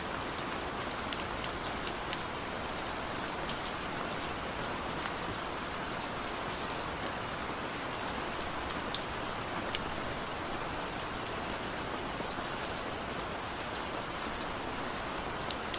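Steady rain falling, an even hiss with many sharp individual drops ticking on a surface.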